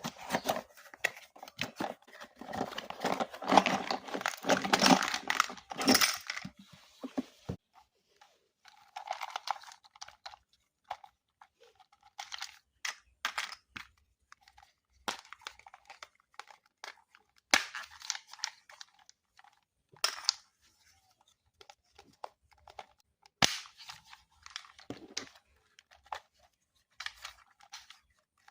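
Toy packaging, cardboard and plastic, being torn open and handled: a dense stretch of tearing and crinkling for about the first seven seconds, then scattered short rustles, snaps and clicks.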